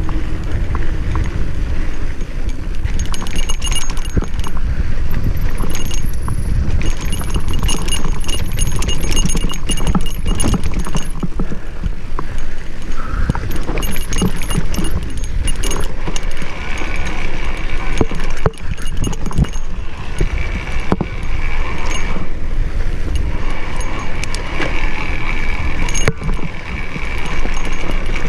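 Mountain bike rattling and clattering as it rolls down rough single-track, with many sharp knocks from the frame and chain over bumps. A heavy low rumble of wind on the microphone runs underneath.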